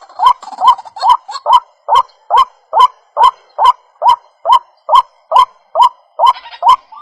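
White-breasted waterhen calling: a steady run of short notes, each sliding sharply upward in pitch, a little over two a second.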